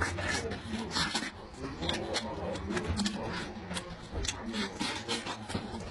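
Close-miked eating sounds of a man chewing fatty meat: irregular wet smacking clicks, several a second.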